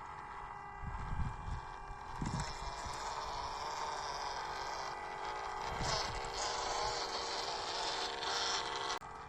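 Small electric motors and gearboxes of 1/16-scale WPL RC crawler trucks whining steadily as they drive, with a hiss and a few low thumps. The sound cuts off suddenly near the end.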